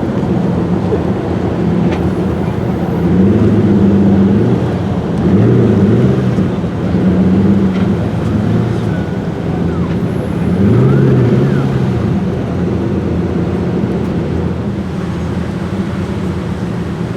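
Car engines running at low speed, their note rising and falling several times over a steady rumble of road and traffic noise.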